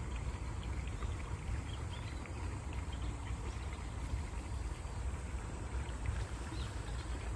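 Flowing stream water: a steady rushing with a low rumble and many small splashes and trickles.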